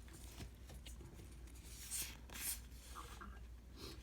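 Baseball trading cards being handled and flipped through in a stack: faint rubbing and sliding of card against card, with two brief louder swishes a little past halfway.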